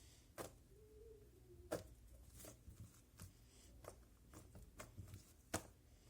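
Homemade slime being squished and poked by hand, making faint, irregular little clicks and pops.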